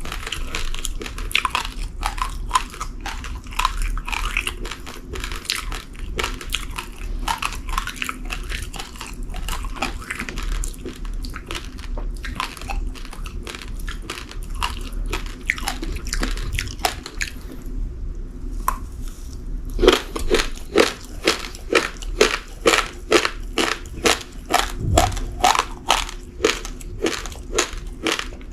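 Uncooked rice grains being crunched between the teeth in a rapid, uneven run of crunches. After a short pause the chewing comes louder and more regular, about two crunches a second.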